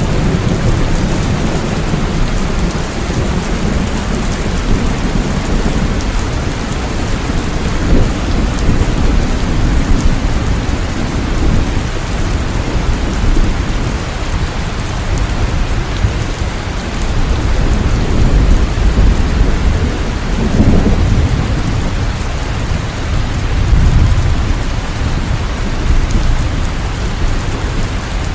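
Steady heavy rain falling, with low thunder rumbling and swelling in the background.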